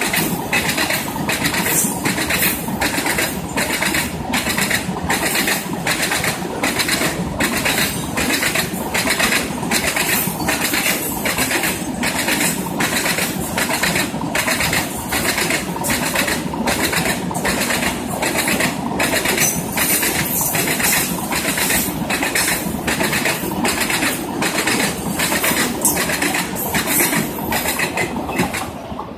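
Train rolling past, its wheels clattering over rail joints in a steady rhythm of about two clacks a second over a continuous rumble.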